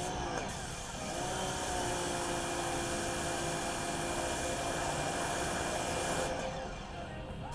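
A motor running with a strong rushing hiss. Its pitch winds up about a second in, holds steady, and drops away near the end.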